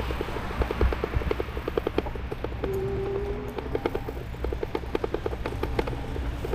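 E-bike riding along with a fast, even ticking of about seven or eight clicks a second over a low rumble of tyres and wind, and a brief steady whine about three seconds in.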